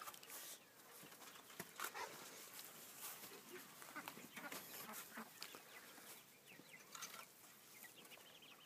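Near silence with faint, scattered calls and small sounds from chickens and ducks in a poultry pen.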